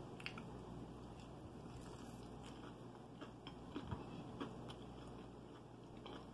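Faint chewing of a mouthful of fried chicken, with a few soft mouth clicks, slightly stronger around the middle.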